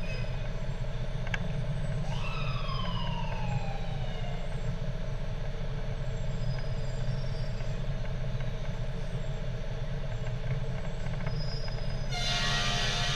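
A fire truck's engine runs steadily. About two seconds in, its siren gives a short wail that rises quickly and then falls away. Near the end comes a loud blast of its air horn.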